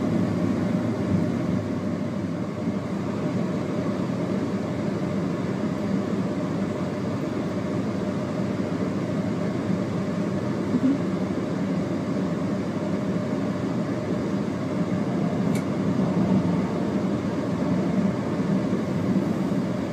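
Steady rumble inside the cab of an Intercity 125 (HST) diesel train running along the track, engine and wheels on rails.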